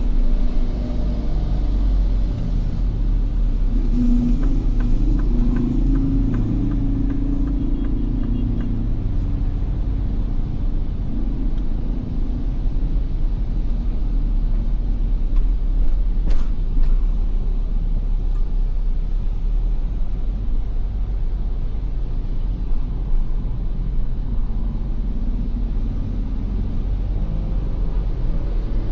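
Ford Everest SUV driving in traffic: a steady low rumble of engine and road noise, with a brief rise in engine note a few seconds in and a single short click about halfway through.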